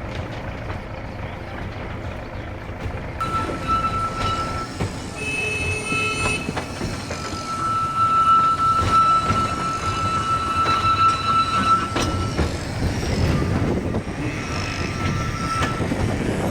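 Narrow-gauge train running on the rails, with a high, steady wheel squeal over the rumble from about three seconds in, fading out about twelve seconds in and briefly returning near the end.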